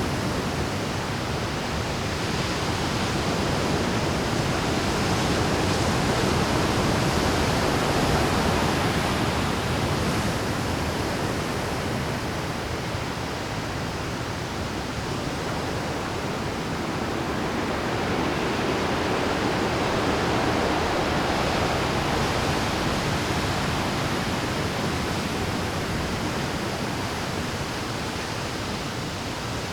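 Rough Pacific surf breaking on a rocky shore: a continuous rushing wash of waves that swells louder twice as sets come in.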